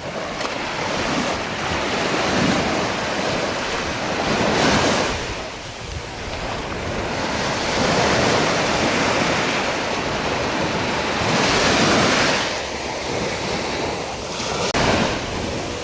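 Ocean surf washing onto the beach, an even rushing that swells and fades several times, with wind on the microphone.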